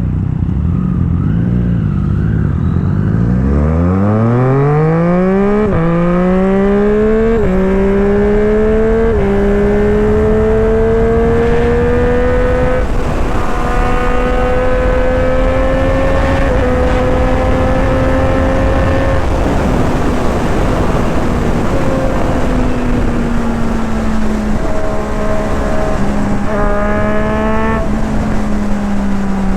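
Triumph Street Triple RS three-cylinder engine with a Yoshimura aftermarket exhaust, heard on board. It pulls hard up through the gears with quick upshifts about every second and a half, then holds a steady speed with a couple more shifts. It eases off and the revs rise and drop again over the last few seconds. Wind rushes steadily over the microphone underneath.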